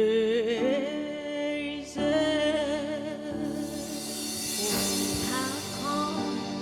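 Gospel song: long held sung notes with vibrato over a soft backing, a new phrase starting about two seconds in.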